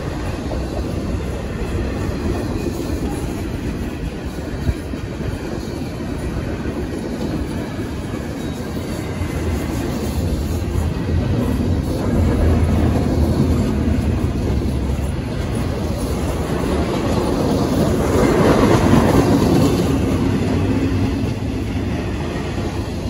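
Empty double-stack intermodal well cars of a freight train rolling past, a steady rumble and clatter of steel wheels on the rails. There is a single sharp click about five seconds in, and the noise swells louder for a couple of seconds near the end.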